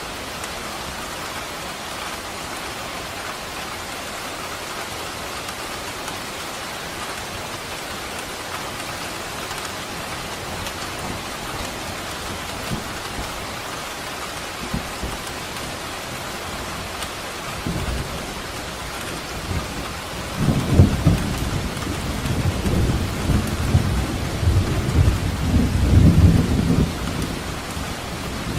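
Steady rain falling. About two-thirds of the way through, a low rumble of thunder builds into a long roll that dies away just before the end.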